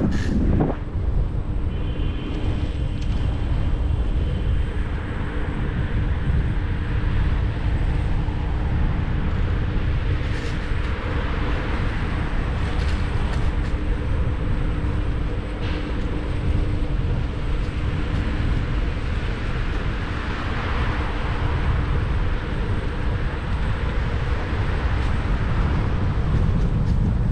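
Wind rushing over the camera microphone and road and traffic noise during an electric scooter ride in city traffic, a steady rumble, with a low hum that fades out about halfway through.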